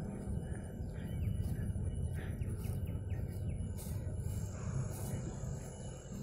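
Open-air ambience: a steady low rumble with faint, scattered bird chirps. A thin, high steady tone comes in about four seconds in.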